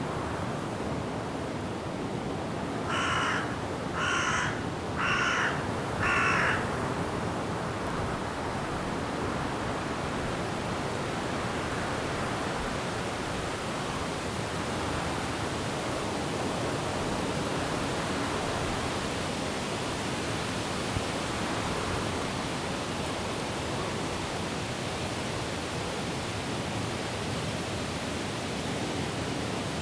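A bird gives four loud, harsh calls about a second apart near the start, over the steady rushing noise of wind and rain in forest trees.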